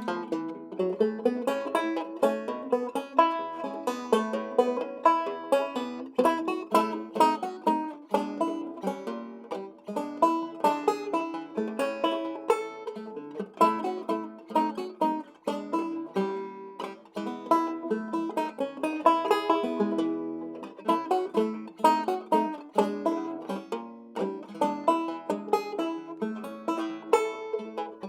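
A circa 1923 Weymann Keystone State guitar banjo, fingerpicked solo in a classic ragtime style: quick plucked notes over an alternating bass line.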